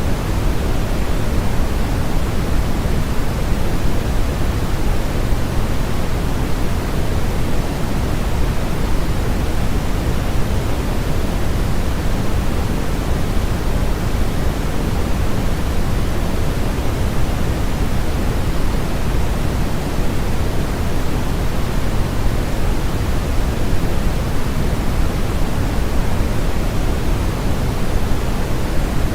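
Steady generated sleep noise, sold as white noise but weighted toward the deep end like pink noise: an even, unchanging rushing hiss with no breaks or events.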